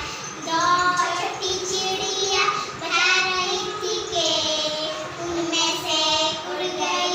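Young children singing a Hindi counting rhyme, a sung chant with a steady melodic line.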